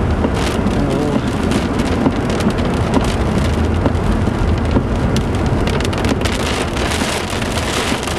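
Heavy rain pelting a car's windshield and roof, heard from inside the cabin: a dense steady patter full of sharp ticks, with a low rumble underneath.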